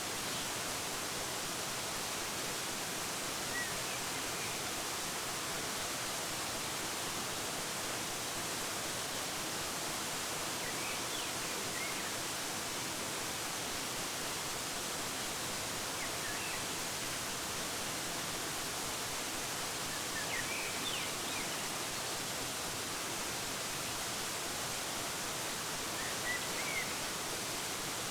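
Steady, even rush of a waterfall, with a few short, faint bird chirps scattered through it.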